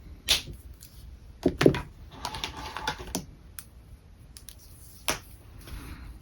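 Alcohol markers being handled: a few sharp clicks and taps, the loudest a knock about a second and a half in, with a stretch of scratchy marker strokes on paper about two to three seconds in.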